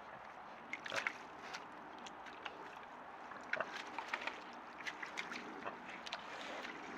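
Wild boars wallowing in wet mud: irregular splashes and squelches, bunched about a second in and again in the middle, over a steady background hiss.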